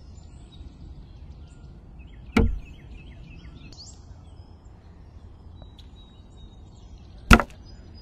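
Two sudden whooshing thuds, one about two and a half seconds in and a sharper, louder one near the end, over a low background with faint high chirps.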